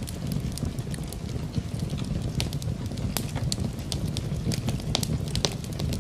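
Wood fire crackling in a fireplace, with irregular sharp pops and snaps over a steady low rush of rain.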